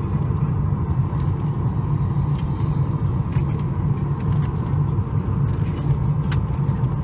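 Steady low rumble of a Boeing 737 MAX 8 heard from inside the passenger cabin, with a faint steady hum above it and a few light clicks.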